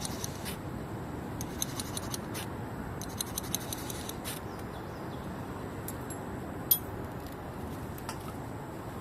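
Ferrocerium fire-starter rod struck with a scraper, in several bursts of quick, rasping strokes to throw sparks onto birch-bark tinder, with one sharp louder click near the seven-second mark.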